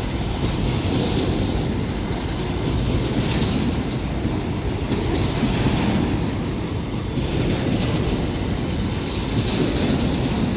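Freight train rolling past, its wagons' wheels clattering over the rails in a steady run with a hiss that swells and fades every few seconds.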